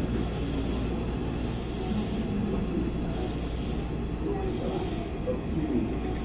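Hankyu 1000 series electric train heard from inside the car, a steady rumble and hiss of wheels running on the track, near the end of its run into a station stop.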